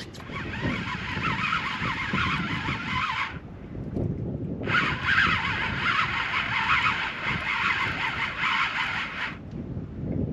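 Fishing reel being wound in, its gears whirring in two spells of winding with a pause of about a second and a half between them, over a low rumble.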